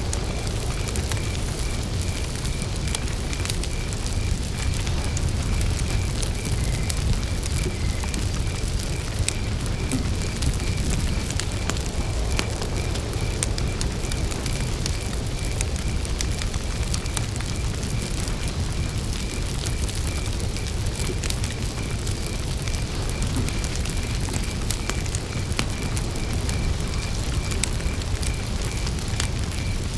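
Wood campfire crackling with scattered sharp pops over a steady low rumble, while a cricket chirps in an even, unbroken series of pulses.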